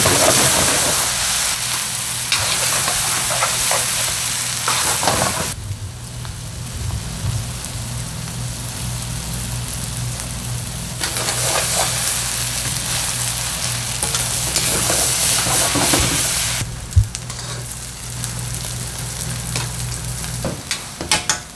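Fish cakes sizzling in a hot pan as they are stir-fried, with short scrapes and clicks of the stirring and one sharp knock a little past the middle. The sizzle drops and returns a few times, over a steady low hum that stops near the end.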